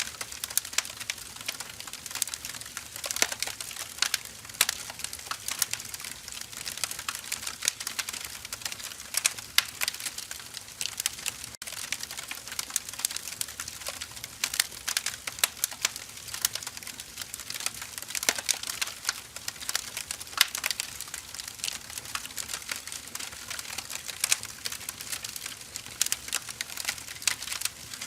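Firewood burning, crackling with a dense, irregular run of sharp snaps and pops over a soft hiss.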